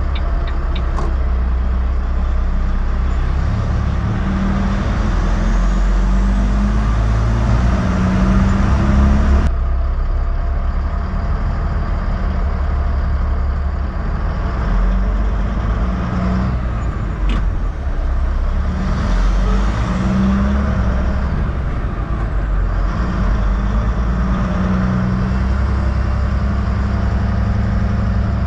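Heavy truck's diesel engine running, its pitch stepping up and down, with an abrupt change in the sound about a third of the way in.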